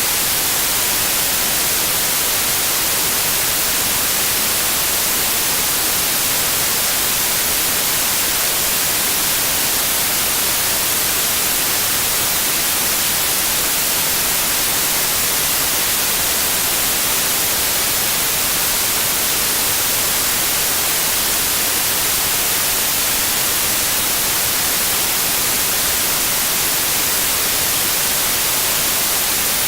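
Generated white noise: a steady, even hiss, bright and with little low rumble, unchanging throughout.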